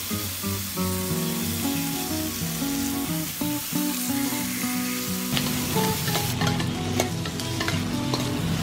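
Yellowfin tuna steaks sizzling steadily on a hot grill pan. A metal spatula clicks and scrapes against the pan a few times in the second half as the steaks are turned.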